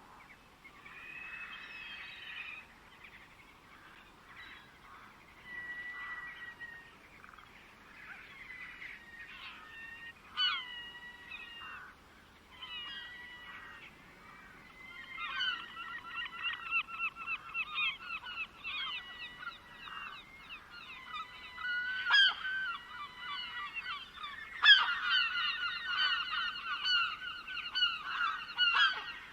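Birds calling: scattered calls at first, then a dense run of rapid repeated calls from about halfway that grows louder near the end.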